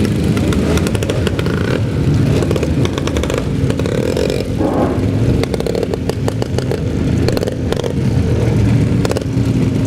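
Classic vehicle engines running close by: a steady low drone with an uneven clatter of short clicks over it.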